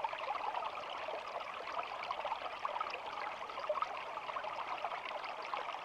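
Shallow stream flowing and babbling steadily, a dense continuous bubbling with no change.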